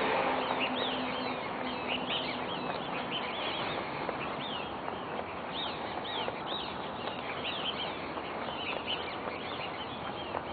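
Birds in the trees chirping over and over, many short rising-and-falling chirps, over a steady rushing noise.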